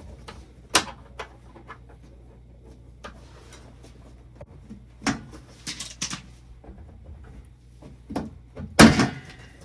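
Scattered clicks and knocks of hand work on boiler wiring and metal fittings, reconnecting the spark igniter and ground wire, with the loudest knock near the end. A steady low hum runs underneath.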